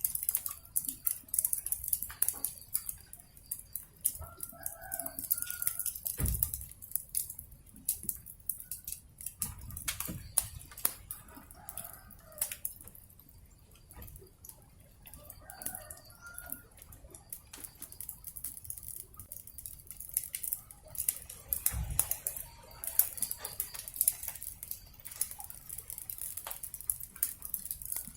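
Wood fire crackling and popping steadily, with a chicken clucking in three short bouts and two dull thumps.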